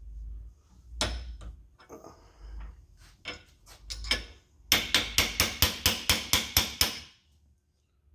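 A hammer taps a drift punch to drive a locating dowel pin out of a connecting rod. About a dozen quick, sharp strikes come a little past halfway, roughly five a second, after a few scattered knocks and handling noises.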